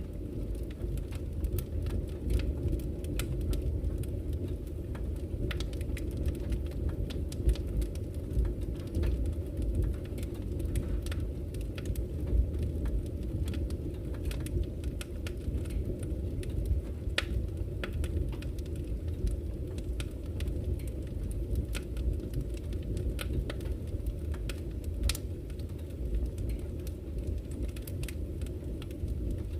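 Campfire crackling, with frequent irregular sharp pops and snaps, over the steady low rush of a flowing river.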